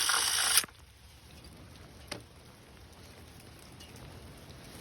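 A loud rushing noise that cuts off abruptly under a second in, then a faint steady hiss of rain with a single sharp click about two seconds in.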